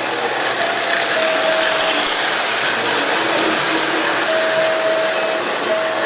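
A train running, with a steady mechanical clatter and whirr; a faint steady tone comes and goes a few times.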